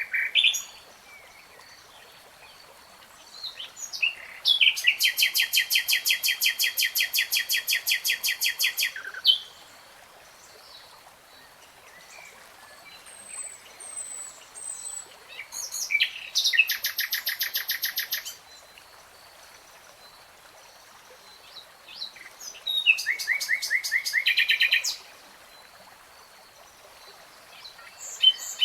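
A songbird singing in long trilled phrases of rapid repeated notes, several notes a second and each phrase a few seconds long, with short chirps and pauses between them.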